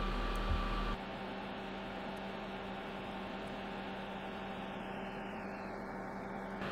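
Steady electrical hum over a hiss of background noise. The sound changes abruptly about a second in, as the lowest hum and a higher steady tone cut out, and a faint knock comes just before that.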